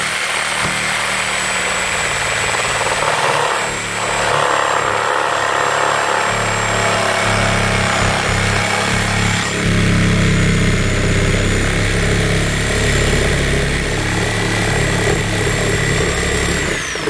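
Power saw cutting the vent hole through the roof, running continuously with a steady high motor whine. The whine falls away as the saw stops near the end.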